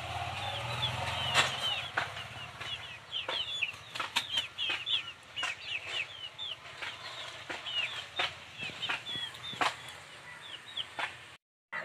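Several small birds chirping steadily, many short high calls that drop in pitch and overlap, with sharp clicks scattered through; the sound cuts out briefly near the end.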